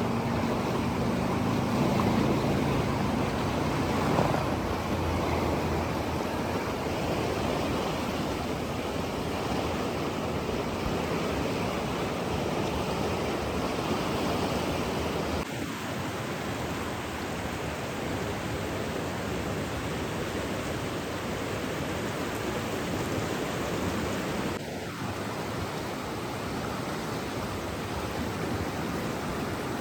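Steady rushing water, an even hiss with no distinct splashes or drops. A low droning hum underneath fades out within the first few seconds, and the water sound shifts slightly about halfway through and again near the end.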